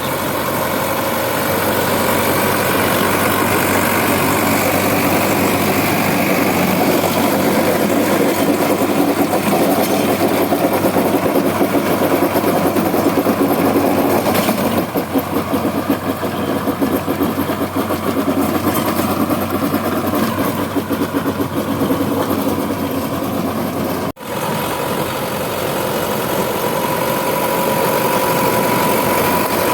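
Tractor diesel engine running steadily, with a brief break about 24 seconds in.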